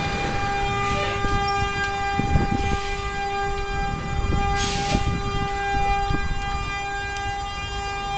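A steady, unwavering horn-like tone sounding continuously with a lower note joining about half a second in, over scattered sharp pops and clicks.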